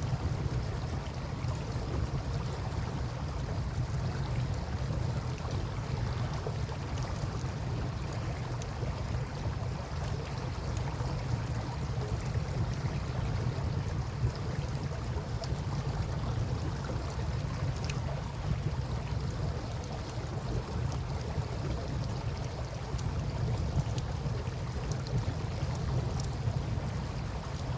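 Campfire crackling with scattered faint pops over the steady wash of river water, with a steady low rumble underneath.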